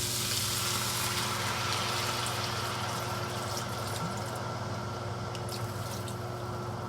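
Sake-and-water liquid bubbling in a hot pan of chicken and ginger: a steady hiss with small scattered pops, easing a little over the seconds. A steady low hum runs underneath.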